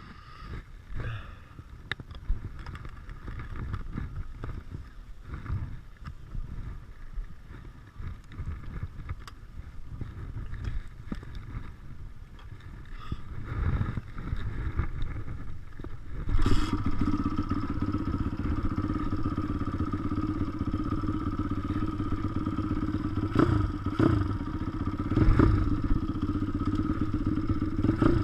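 WPB 155 pit bike engine running on track, quieter and uneven with knocks and rattles for the first half, then louder and steady from a little past halfway.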